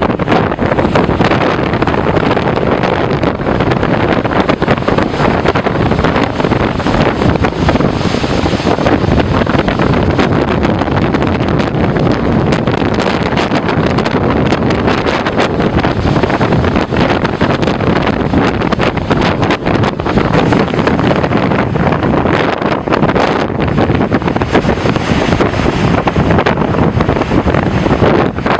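Strong storm wind buffeting the microphone in a loud, steady rumbling roar, with surf beneath it.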